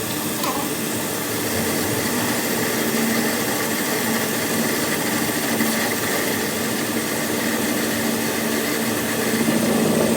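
A motor-driven machine running steadily, with a constant hum under an even mechanical noise.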